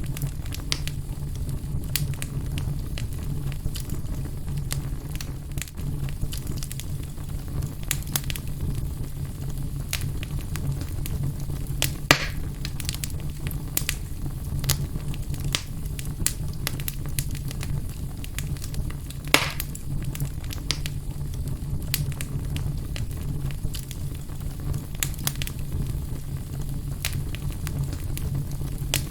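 Wood fire burning in a fireplace: a steady low rumble under continual light crackling, with two louder pops, one about twelve seconds in and another about seven seconds later.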